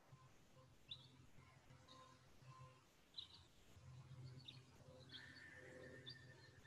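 Near silence with faint bird chirps in the background: several short, high calls a second or so apart.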